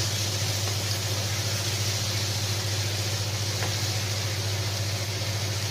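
Chopped fresh tomatoes frying in a skillet, a steady sizzle over a steady low hum.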